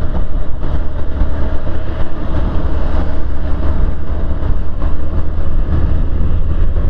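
Motorcycle being ridden on the road: a steady engine and road rumble with wind on the microphone.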